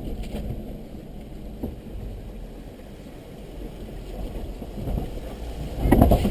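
Vehicle engine rumbling as it drives into a creek, with the noise of the water around it and a louder burst near the end.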